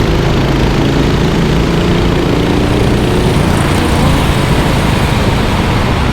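Racing kart engines running steadily; a pitched engine drone in the first half gives way to a rougher, even noise from about halfway through.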